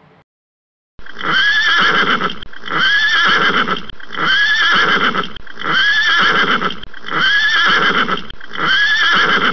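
Horse whinnying again and again, starting about a second in. The same call comes back about every second and a half, six times over.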